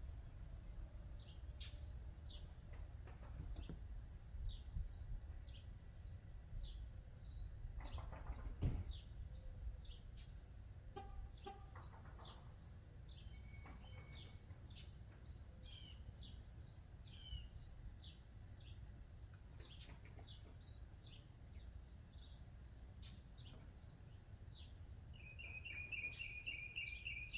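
Birds chirping over and over, short high calls, with a rapid trill near the end, over a faint low rumble.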